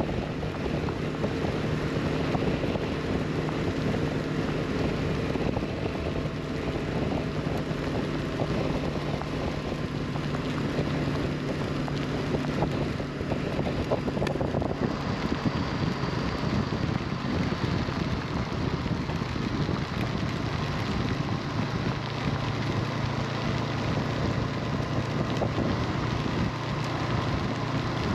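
Honda CB500X parallel-twin engine running steadily at road speed, under wind noise on the microphone and rain. The engine note shifts about halfway through.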